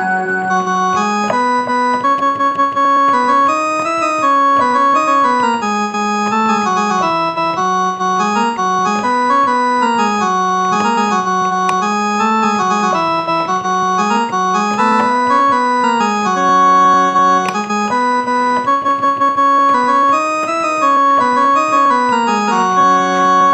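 Casio electronic keyboard playing a Muharram tune in an organ-like voice, a melody of held notes over a lower line that moves step by step.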